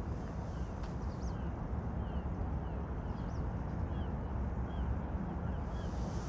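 A small bird chirping over and over, short calls about once a second, over a steady low rumble of outdoor noise.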